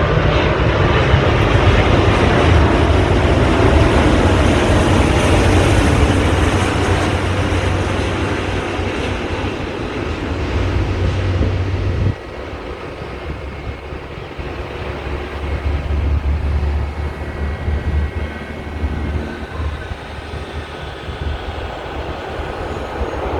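Jet noise from a four-engine Airbus A380 landing: a loud, steady rush and deep rumble that drops off suddenly about twelve seconds in, leaving a quieter low rumble.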